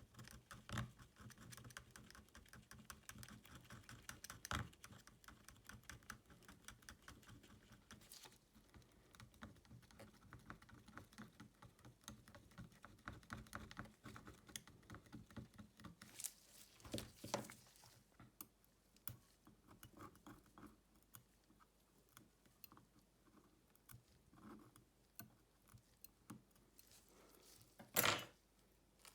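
Small tools working on a smartphone: a dense run of light, quick clicks and taps that thins out after about halfway, with a few louder scrapes and one sharp, louder knock near the end.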